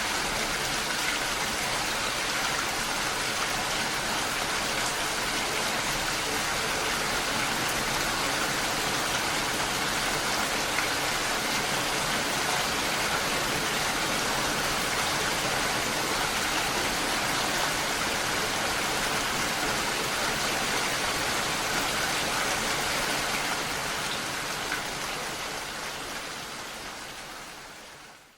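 Steady gentle rain falling, mixed with the rush of a waterfall, fading out over the last few seconds.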